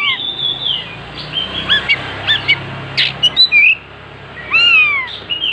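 Oriental magpie-robin (kacer) singing a varied, loud song of clear whistled notes that slide up and down, broken by quick sharp chips.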